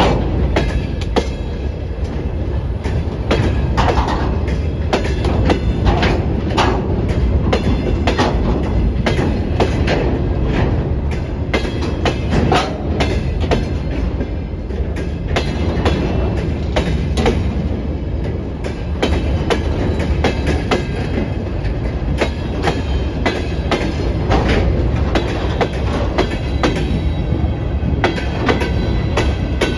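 Freight wagons, open gondolas and covered hoppers, rolling past close by: a steady low rumble of wheels and bogies with frequent sharp clicks as the wheels cross rail joints.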